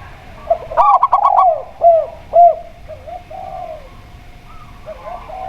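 Zebra dove and spotted dove cooing. About a second in comes a quick run of five short, clipped notes, followed by several arched, rounded coos, with fainter coos near the end.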